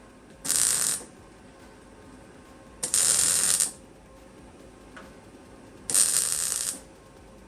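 Welding on thin sheet steel in three short bursts of crackling, each under a second and about three seconds apart: stitch welding a new repair panel in.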